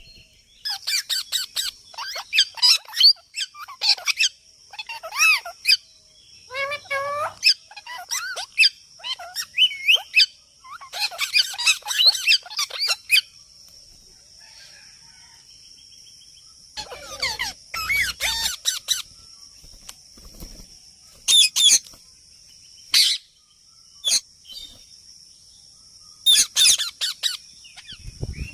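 A parrot chirping and squawking in quick runs of short calls, separated by pauses of a few seconds, over a steady high-pitched tone in the background.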